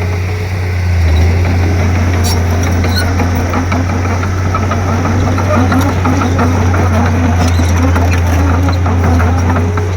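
Komatsu D31P bulldozer's diesel engine running steadily under load with a deep, constant drone. From about two seconds in, a wavering squeal and scattered clanks rise over it.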